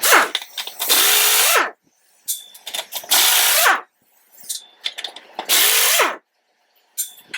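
Pneumatic impact wrench loosening the rim bolts on a John Deere 820 tractor wheel, run in short bursts of under a second, three in a row, each winding down in pitch as the trigger is let go. Short clinks of the socket and bolts come between the bursts.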